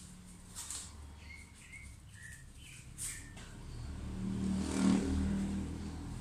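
A few short bird chirps, then a vehicle passing by whose low rumble swells to its loudest about five seconds in and then fades.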